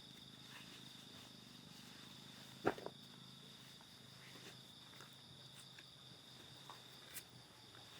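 Steady high-pitched trilling of crickets in a night-time insect chorus, faint throughout. A single sharp click or knock sounds close by about two and a half seconds in, with a few fainter ticks later.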